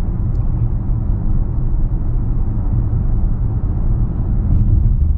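Steady low rumble inside the cabin of a 2019 Mercedes-AMG S 63 while it is being driven at an even pace, its V8 and the road heard through the closed car.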